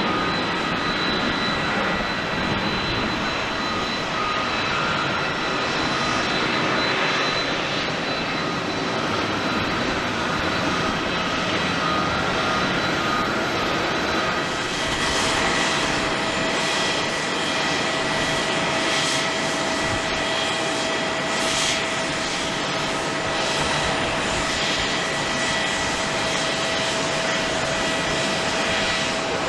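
Jet airliner engines running with a steady, even noise, first a Boeing 737-800's, then, about halfway through, an Airbus A350-900's. The A350's part carries a steady whine.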